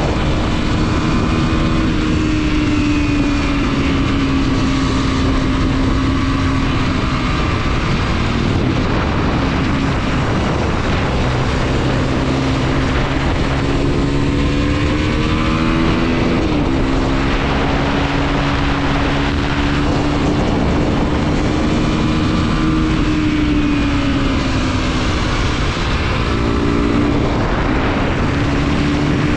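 Mondial SMX 125's single-cylinder engine pulling under load, its pitch slowly rising and falling with the throttle. The revs drop sharply at a gear change about halfway through and again near the end.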